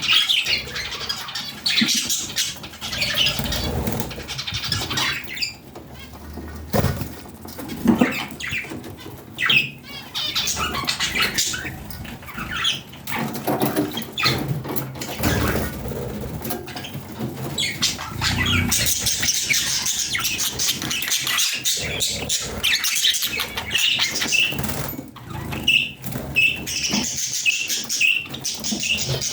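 Budgerigars chirping and chattering, mixed with scattered knocks and rustles, and a run of short repeated chirps near the end.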